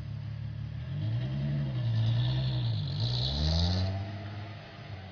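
Supercharged 2.9 VR6 engine of a Mk3 Volkswagen Golf revving: the note climbs and falls, dips briefly, then climbs again with a high whine over it, and dies away after about four seconds.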